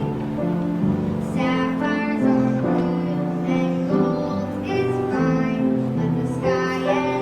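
Music with singing, a child's or woman's voice over sustained accompaniment notes.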